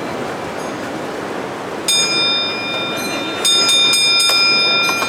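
Steady background noise, then two sustained high-pitched ringing tones that start suddenly, about two and three and a half seconds in, with a few light clicks.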